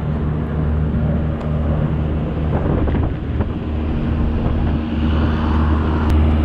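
Steady diesel engine drone from a stopped double-stack intermodal freight train: a low, even hum with several pitched tones that does not change.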